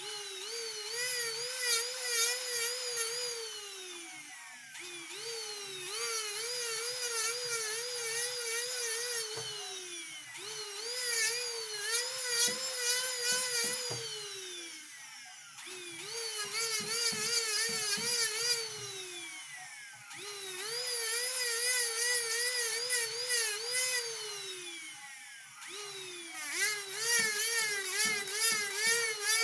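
Jeweller's small high-speed rotary tool spinning up, running with a wavering whine, then winding down in pitch. This happens about six times over, with scratchy grinding noise while the bit works the metal.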